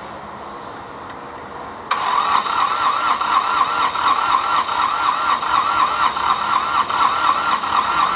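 Starter motor cranking a hard-starting Kubota D905 three-cylinder diesel (ASTE A155 marine engine), cutting in suddenly about two seconds in. It turns the engine over at an even rhythm of compression pulses with a steady starter whine, without catching.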